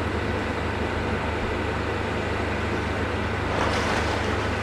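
Steady low engine rumble with road traffic noise, swelling slightly about three and a half seconds in.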